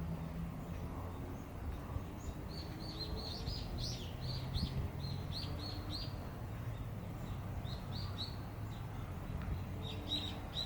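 Small birds chirping: runs of quick, short, high chirps a few seconds in and again near the end, over a low steady hum.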